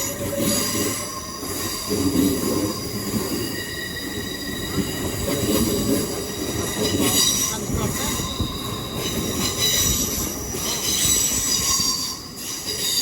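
Wheel flange squeal from a departing GWR Class 800 train: several high squealing tones that swell and fade in waves, loudest about halfway through and again near the end, over a low rumble of the wheels.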